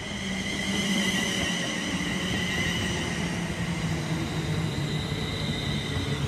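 London Northwestern Railway Class 350 Desiro electric multiple unit running past close along the platform: wheels rumbling on the rails under a steady high electric whine, with a low hum that sinks slightly in pitch.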